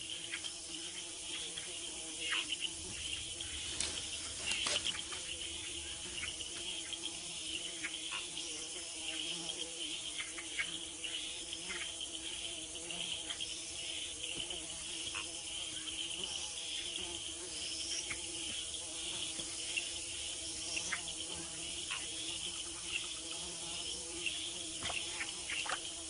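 Rainforest insect chorus: a steady layered buzzing and chirring, with scattered faint clicks.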